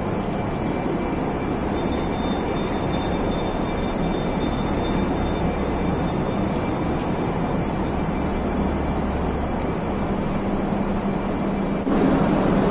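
Steady low rumble and hum of idling road vehicles and machinery under the concrete deck of a covered bus and taxi terminus. The deepest part of the hum stops about ten seconds in, and the noise steps up louder near the end.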